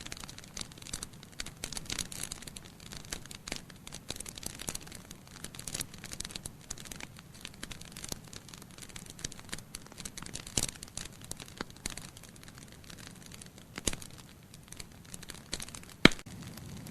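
Wood fire in a fireplace crackling: a continuous scatter of small irregular pops over a low hiss from burning logs, with a few louder pops and one sharp loud snap near the end.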